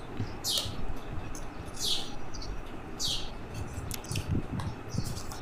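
A small bird chirping: three high calls that each slide downward, about a second and a quarter apart. Underneath are soft rustles and light knocks from hands handling a plastic-wrapped phone box.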